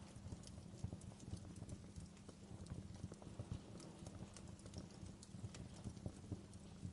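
Wood fire burning in a fireplace: irregular crackles and snaps, several a second, over the low steady rumble of the flames.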